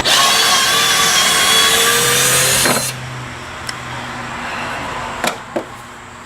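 Handheld power tool running at speed on the wheel hubs, its pitch creeping up slightly, then cutting off about three seconds in; a couple of light knocks follow.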